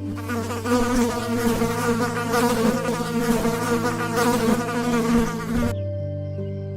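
An insect buzzing loudly with a slightly wavering pitch, cutting off suddenly about a second before the end.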